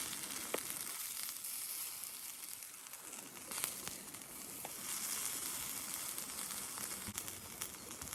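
Tare-glazed yakitori chicken skewers sizzling over binchotan charcoal on a small grill: a steady, fluctuating hiss with a few sharp pops and crackles.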